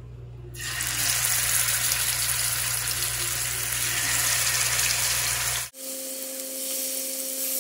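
Marinated chicken sizzling as it fries in hot coconut oil in a pan, starting about half a second in. Near the end the sizzle cuts off abruptly, and a quieter hiss with a steady low hum follows.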